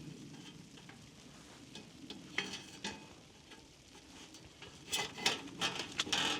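Rustling and light clattering of things being handled, with a quick run of sharp clicks and knocks near the end.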